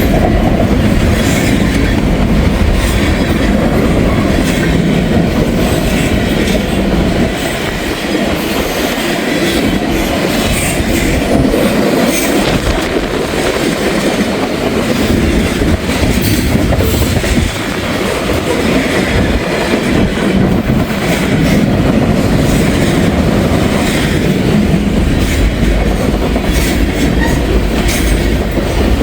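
Freight train cars rolling by, a steady loud rumble with wheels clicking over the rail joints throughout.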